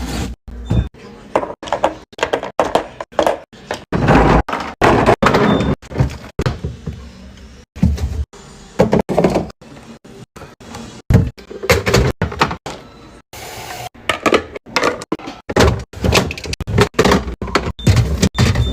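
A quick, uneven series of thunks and knocks as food containers, bins and bottles are set down and slid into place in a refrigerator, with drawers or doors sliding.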